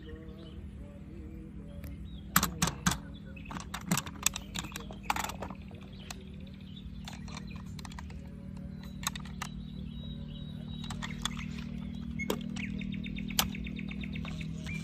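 Hard plastic toys being handled: a quick run of irregular clicks and clatters in the first few seconds, then scattered single clicks, over a steady low hum.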